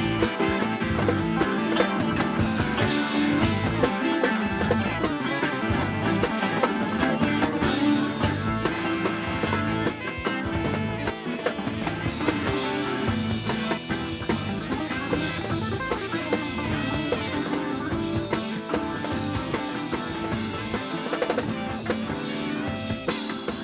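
Rock band playing an instrumental passage: electric guitar over bass and drum kit, with no singing.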